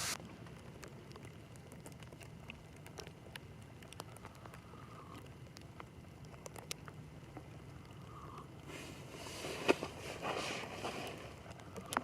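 Faint, scattered ticks of snow pattering on a plastic-wrap shelter, with a short stretch of rustling and a single knock near the end.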